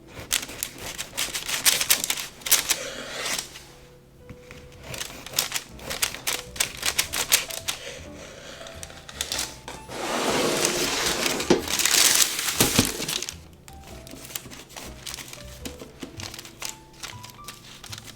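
A kitchen knife cutting on a cutting board: a quick run of sharp taps and clicks, with a steady scraping saw-stroke for about three seconds near the middle, under soft background music.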